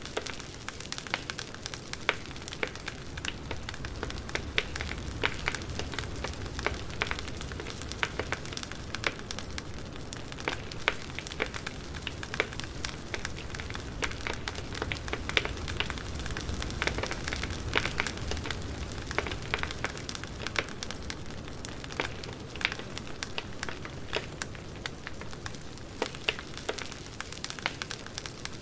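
Campfire burning with steady, irregular crackling and pops over a soft low rumble of the flames.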